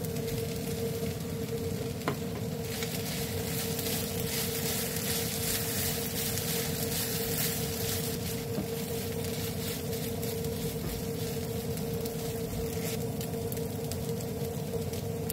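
Shrimp and brown-rice fried rice sizzling in a nonstick wok as it is stirred with a spatula. The sizzle grows louder a couple of seconds in, over a steady hum.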